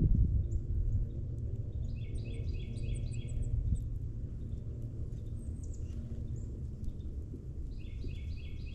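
A songbird calling a quick series of about seven short notes, roughly four a second, about two seconds in, and starting another series near the end, with a few faint high chips between. A steady low rumble of background noise runs underneath.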